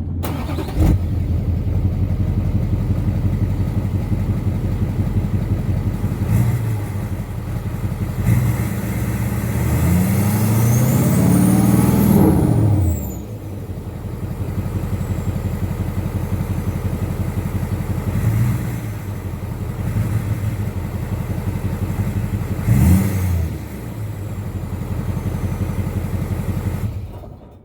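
2007 LBZ Duramax 6.6-litre V8 turbodiesel running with its exhaust removed: idling, revved in several short blips and once held for about three seconds, its pitch rising then falling with a rising and falling turbo whistle. The engine shuts off near the end.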